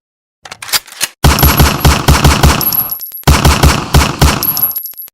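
Machine-gun sound effect: a few light clicks, then two bursts of rapid automatic fire, each about a second and a half long at roughly five shots a second, with a short pause between them.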